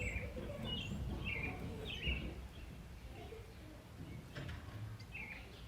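Small birds chirping: a few short, quick falling chirps in the first two seconds and another near the end, over a steady low background rumble.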